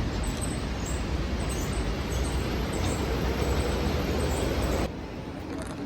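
Steady low rumble and running noise of a moving vehicle, cut off abruptly near the end.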